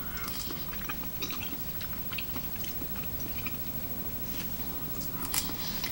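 A person chewing a mouthful of chewy tteokbokki rice cakes in sauce, close to the microphone, with many small wet mouth clicks. A sharper click comes near the end.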